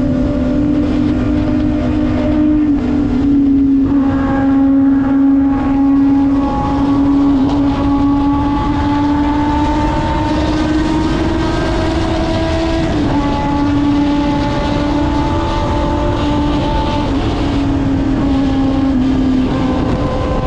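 Kawasaki ZX-6R's inline-four engine running at a steady, high-pitched cruise under way, its note drifting slowly up and down and dropping slightly about two-thirds through, over a steady rushing noise.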